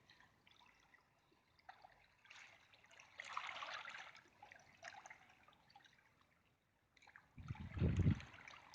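Faint sea water washing, swelling for about two seconds a little after two seconds in, then a louder low rumble near the end.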